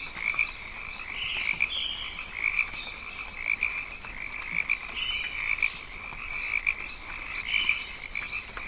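Rainforest ambience: a steady, pulsing chorus of calling frogs, with short higher bird calls over it now and then.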